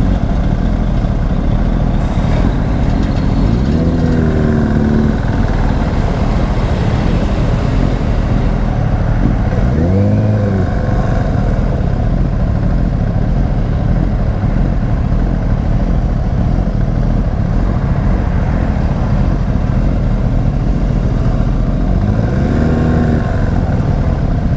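A Herald motorcycle being ridden, with steady heavy wind and road noise. An engine note rises and falls in pitch three times, around 4, 10 and 23 seconds in.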